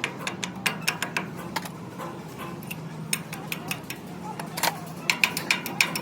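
Irregular sharp metallic taps and clinks, bunched in quick runs near the start and again near the end, over a low steady hum.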